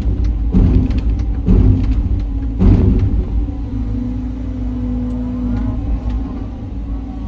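Cat 323 hydraulic excavator's diesel engine running under load as its hydraulics work. For the first three seconds the sound swells with harsh surges about once a second, then settles into a steadier drone with a held hum.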